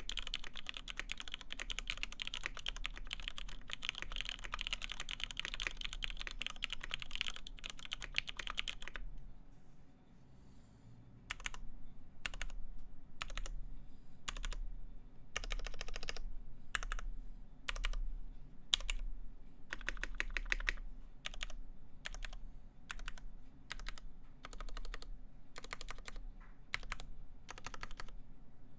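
Typing on a Duck Unicorn x Legend mechanical keyboard with lubed vintage Cherry MX Black linear switches, a FR-4 plate and PBT keycaps. Fast, continuous typing for about nine seconds, a brief pause, then slower, separate keystrokes and short runs of keys.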